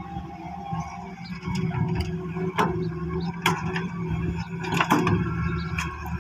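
Hitachi hydraulic excavator's diesel engine running steadily, growing louder about a second and a half in, with several sharp knocks and clanks on top.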